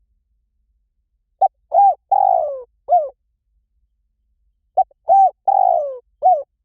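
Spotted dove cooing: two phrases about three seconds apart. Each has a short note, an arched coo, a long coo falling in pitch, and a final arched coo.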